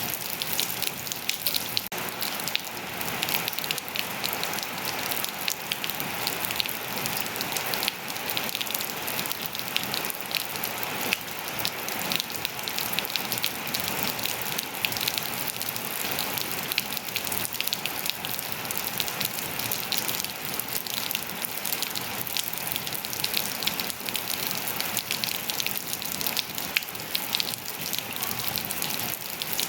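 Steady rain falling, a constant hiss with many separate drops ticking sharply on hard surfaces.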